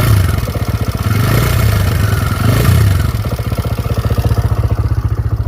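TVS Raider 125's single-cylinder engine running hot with an even, rapid ticking rattle, speeding up briefly in the first three seconds. The owner puts the 'kit kit' tick down to a timing-chain problem, and it is loud now that the engine is warm.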